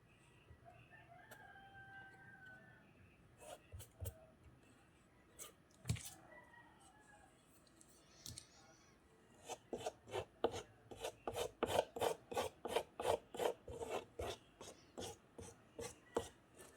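Quick back-and-forth rubbing strokes on paper, about four or five a second, starting a little past halfway through, after a few scattered light taps.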